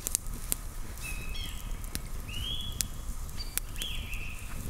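Wood campfire crackling, with sharp irregular pops, over a low steady rumble. Short high whistling notes repeat about once a second.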